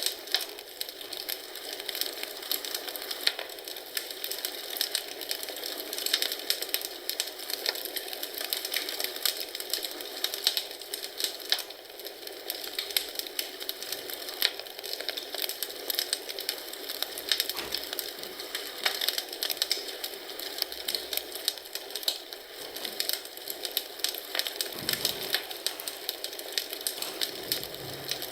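Wood fire in a fireplace crackling, with many irregular sharp pops and snaps over a steady hiss.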